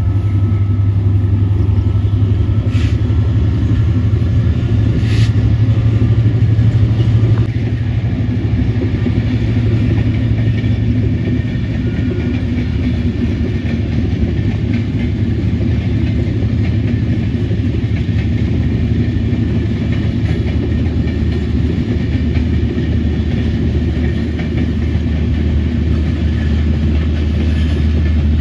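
Express train running on the rails: a steady low rumble and drone with wheel noise. The drone drops to a lower pitch about a quarter of the way in, and there are two sharp clicks early on.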